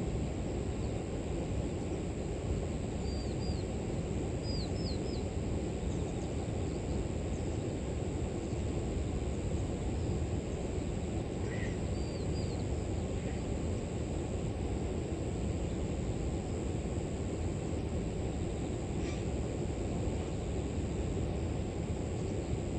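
Steady low rushing of river water, with a thin high insect drone over it and short high bird chirps in small groups of two or three at a few points, about 3, 5 and 12 seconds in.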